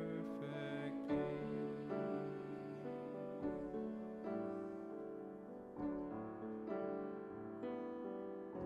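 Keyboard playing slow, sustained chords, a new chord struck about once a second.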